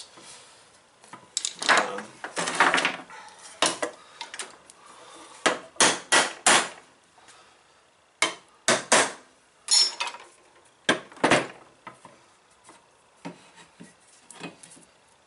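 Scooter fork and headset parts being handled and fitted: irregular metal clinks and knocks, a short stretch of scraping and rubbing a couple of seconds in, and a cluster of sharper knocks around the middle.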